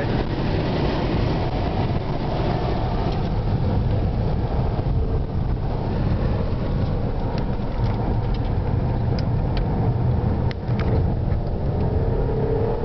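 Interior sound of a Porsche Panamera Turbo's twin-turbo V8 driven hard around a race track: a steady engine drone mixed with road and tyre noise, with the engine note climbing near the end as it accelerates again.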